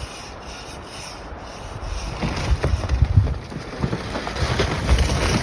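Wind buffeting the microphone in low, irregular gusts over a steady hiss, growing louder about two seconds in.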